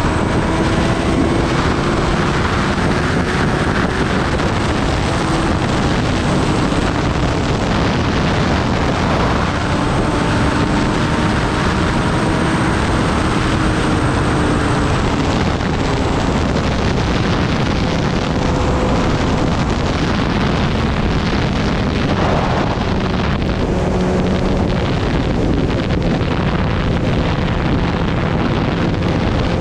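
Kawasaki Ninja ZX-10R's inline-four engine running at steady, slowly changing revs while riding, mostly covered by heavy wind noise on the microphone.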